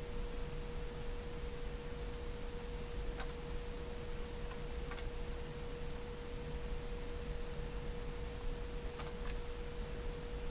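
A steady pure tone, a little below 500 Hz, held unchanged over a low background hiss, with a few faint clicks.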